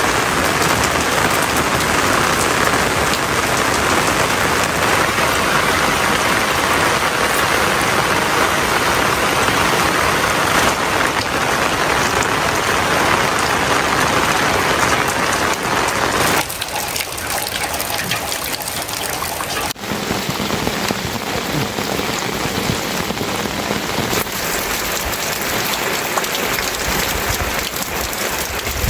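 Steady, heavy rain falling, a dense even hiss. About sixteen seconds in it abruptly drops in level, and a few seconds later its sound changes sharply again.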